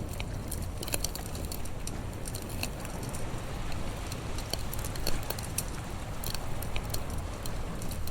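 Wood campfire crackling, with irregular sharp pops and snaps, the sharpest about five seconds in, over a steady low rumble.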